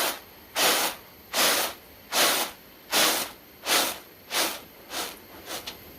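Grain being winnowed on a tray: a rhythmic rushing rattle with each toss, roughly every three-quarters of a second, coming a little quicker and weaker near the end.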